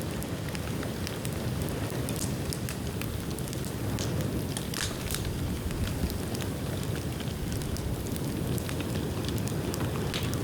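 Dry bamboo burning in an open bonfire: a steady low rush of flame with scattered sharp crackles and pops throughout.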